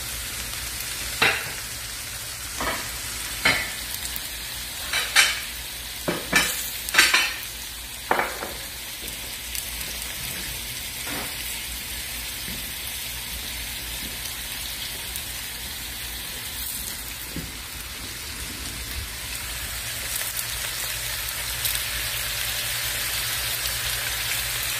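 Okra frying hot in oil in a skillet, a steady sizzle, hot enough that the okra is close to burning. Several sharp clinks and clatters come in the first eight seconds or so.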